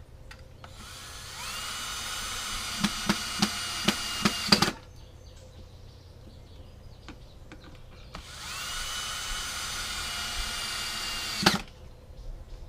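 A power drill driving long screws into wooden boards, in two runs of a few seconds each. The motor's whine rises and then holds steady, with a string of sharp clicks near the end of the first run.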